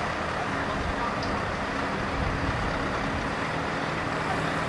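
Heavy truck's diesel engine running steadily at low speed, with general traffic noise around it.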